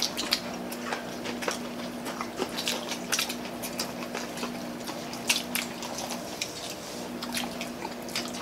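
Close-up eating sounds: several people chewing and smacking their lips over fried chicken, rice and palabok noodles, with many short wet clicks throughout over a steady low hum.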